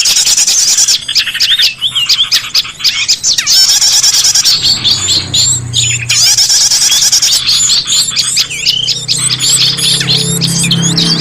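Dense chorus of small songbirds chirping and twittering rapidly, a bird-lure recording meant to attract small birds. About halfway through, a low steady hum joins underneath.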